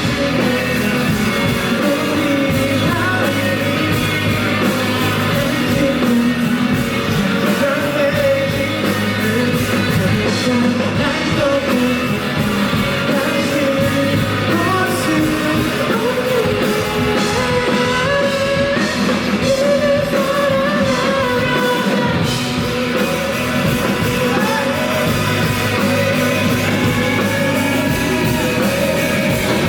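Rock band playing live, with a singer's voice carrying the melody over steady loud guitars, bass and drums.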